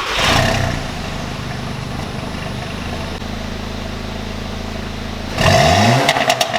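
Audi A3 2.0T turbo four-cylinder with an aftermarket downpipe and resonator delete: it flares as it fires up, settles to a steady raspy idle, then revs sharply about five seconds in and pops and crackles as the revs drop.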